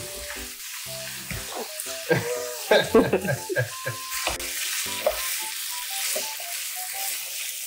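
Chicken pieces and onions sizzling as they fry in a frying pan, with a spoon and whisk stirring a béchamel in a saucepan alongside. The sizzle grows fuller after the first few seconds.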